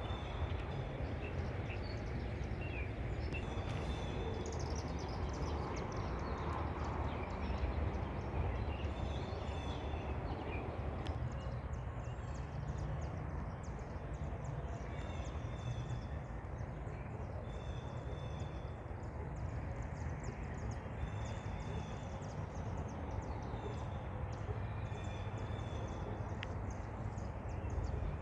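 Small birds chirping and calling in short notes every few seconds, over a steady low rumble.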